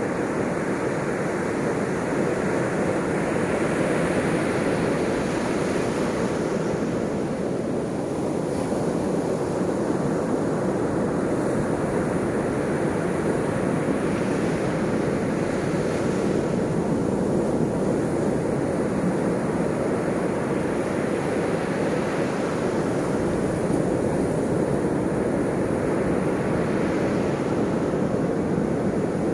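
Ocean surf: a steady rush of breaking waves, with the wash swelling up every several seconds.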